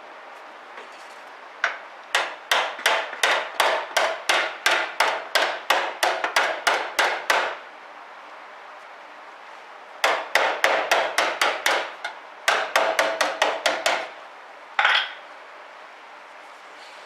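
Hammer blows on sheet steel, about three a second, in two runs of rapid strikes with a pause between and one last blow near the end; typical of tapping a steel patch plate and the bulkhead into shape for welding.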